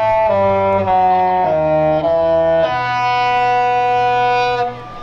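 A brass-like horn melody: several notes sound together as chords that step to new pitches about every half second, then one long held chord that stops shortly before the end.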